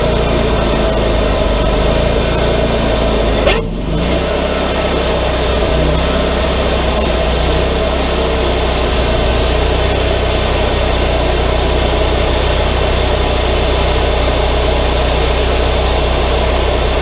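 Wood-Mizer LT40 hydraulic portable sawmill running steadily under power, with a brief dip in the sound about three and a half seconds in.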